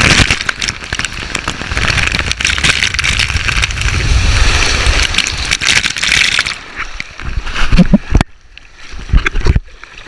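Water rushing and splashing loudly for about six and a half seconds, then dropping away to a few separate knocks and thumps.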